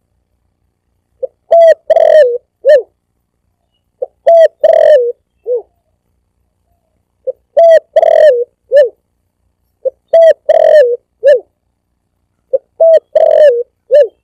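Spotted dove (tekukur) cooing, a recorded lure call: a short phrase of four or five coos, repeated five times about every two and a half seconds, with dead silence between phrases.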